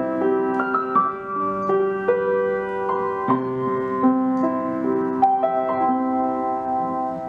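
Background music: a slow piano piece of held notes and chords, each changing about every half second.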